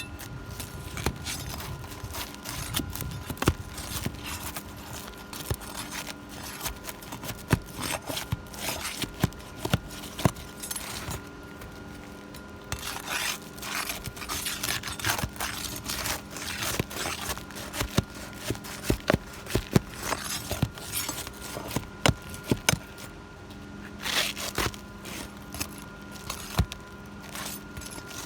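Roof shingles being worked loose by hand and with tools to remove one for repair: irregular scraping and crinkling with many sharp clicks and taps.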